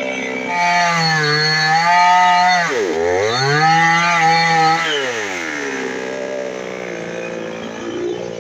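Two-stroke chainsaw engine revved twice, each time held at high speed for a second or two. After the first rev the throttle is released sharply and the pitch dips. After the second it falls back to a lower, steady idle.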